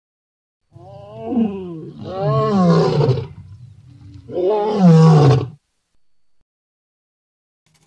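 Imagined Scutosaurus sound effect: three deep creature calls, one after another, each sliding down in pitch, starting about a second in and ending a little past halfway.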